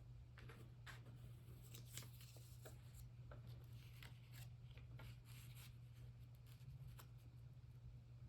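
Near silence: faint scattered taps and rustles of paper cutouts being handled, over a steady low hum.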